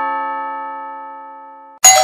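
Doorbell chime ringing. A chime tone dies away slowly, then the chime strikes again sharply near the end.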